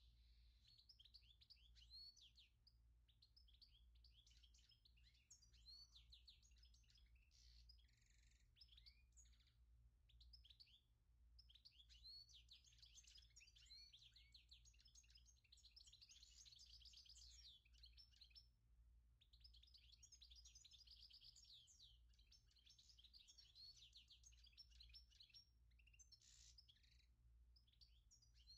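Faint birdsong: small birds twittering in rapid high chirps, in long runs with a couple of short pauses, over a low steady hum.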